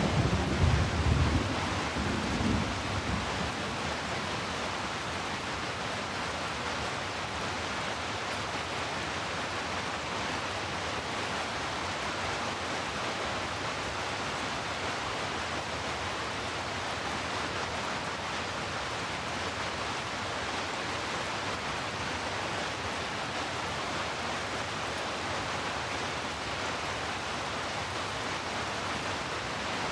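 Heavy rain falling as a steady, even hiss, with a low thunder rumble in the first few seconds that dies away.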